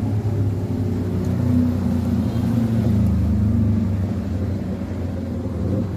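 A motor vehicle's engine running, a low hum that swells toward the middle and then fades.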